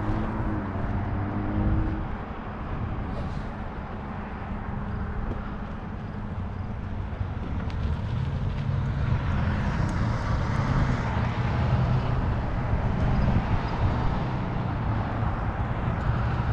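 Wind buffeting the microphone over road traffic, with one vehicle swelling up and fading away as it goes by about two-thirds of the way through.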